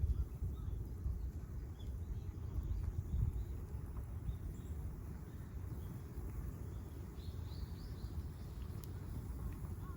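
Small wild birds chirping and calling at intervals, with a quick run of rising chirps about seven seconds in, over a steady low rumble.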